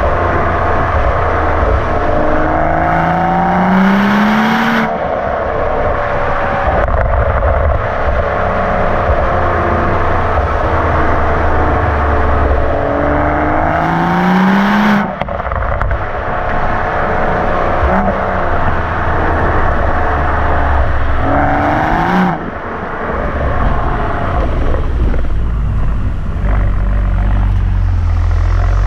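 BMW M135i with an M Performance rear silencer, exhaust valves open, revving up under acceleration three times. Each time the pitch climbs steadily and then cuts off suddenly, about five, fifteen and twenty-two seconds in, over a steady low exhaust drone.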